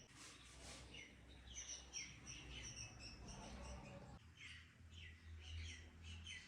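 Faint chirping of small birds: many short chirps that slide downward in pitch, with some higher, thinner notes among them, over a low steady hum.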